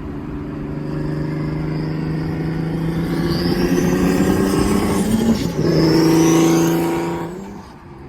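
Single-turbo Infiniti Q50 with a manual gearbox accelerating hard: the engine climbs in pitch with a high whine rising above it, breaks off briefly about five seconds in at a gear change, pulls again louder, then backs off and fades near the end.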